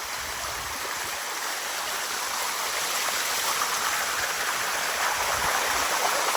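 Water of the Bua Tong 'Sticky' Waterfall running down its limestone cascades, a steady rushing that grows gradually louder.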